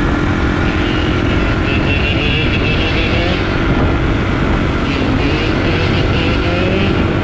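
Dirt bike engine running at a steady pace, with brief small rises in pitch, over a dense low rumble.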